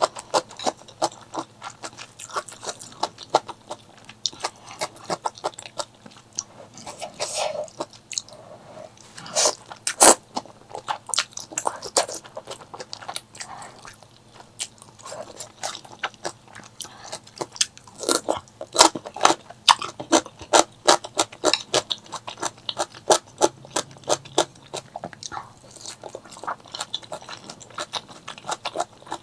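Close-miked eating: chewing and crunching of food, a steady run of sharp crackly clicks from the mouth, with one loud crunch about ten seconds in and a busier stretch past the middle.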